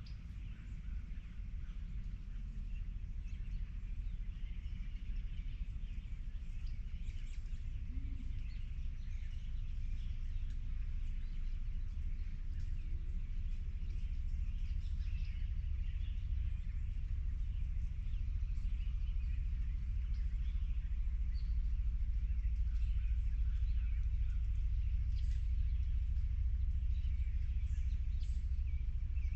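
Wild birds chirping and calling faintly over a steady low rumble that grows slightly louder over the span.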